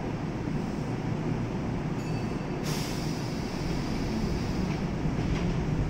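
Kintetsu 2430-series electric train standing at a station platform, its equipment running with a steady low rumble, and a short hiss of air about two and a half seconds in.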